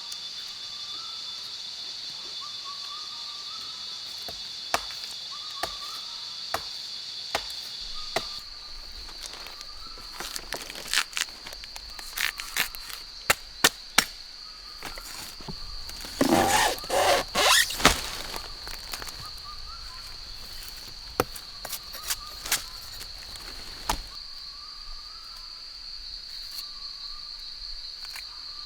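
Rainforest insects droning steadily at a high pitch, with a second, lower drone that stops about a third of the way in. A faint short call repeats now and then. Scattered sharp knocks sound throughout, with a quick run of knocks about two-thirds of the way through, the loudest part.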